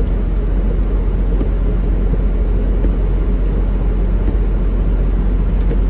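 Steady low rumble of a semi-truck's engine and road noise heard inside the cab while driving.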